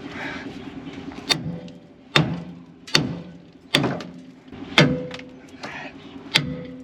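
Hammer blows on steel front-suspension parts of a Ford F-150 during ball joint removal: a steady series of about seven sharp strikes, roughly one every 0.8 seconds, each ringing briefly.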